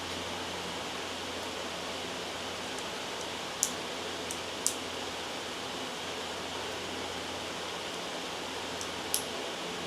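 Steady, loud white noise, an even hiss across the whole range. A few short, sharp clicks come through it, twice around the middle and once near the end.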